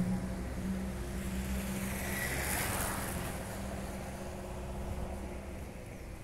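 Scania 111S truck's six-cylinder diesel engine running steadily, with its injection pump just adjusted. It gradually gets quieter, and there is a brief hiss about two and a half seconds in.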